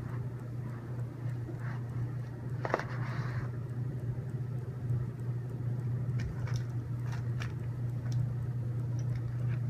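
Light clicks and taps of small robot-kit parts being handled during assembly, with one louder clack about three seconds in, over a steady low hum.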